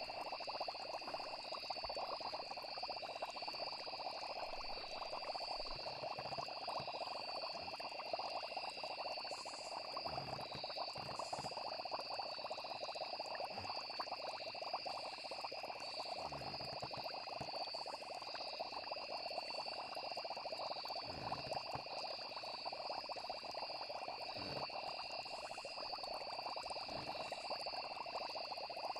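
Night-time chorus of frogs and crickets calling steadily, the insects as an unbroken high trill. A few soft low bubbling sounds come through now and then.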